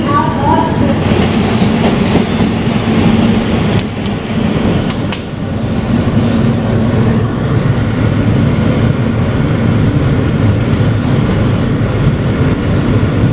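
Kawasaki R160B subway car with Siemens propulsion running along the track, heard from inside the car: a steady rumble of wheels on rail with a steady low hum. A few sharp clicks come about four to five seconds in.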